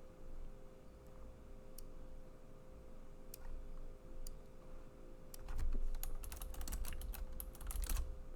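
Typing on a computer keyboard: a few scattered key presses, then a fast run of keystrokes for the last three seconds.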